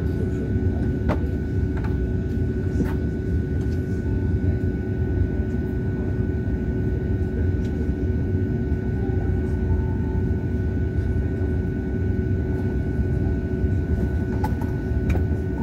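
Steady cabin noise inside an Embraer 195 airliner: a low rumble with a constant whine of engines and air conditioning, and a few faint clicks.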